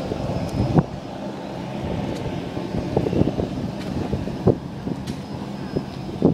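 Steady drone of an aircraft engine running at an airfield, with a low hum and several brief low thumps through it.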